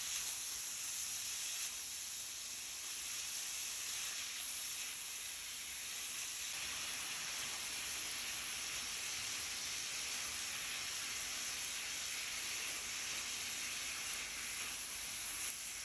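Onions and mixed vegetables frying in oil in a pan, a steady sizzle that holds the same throughout.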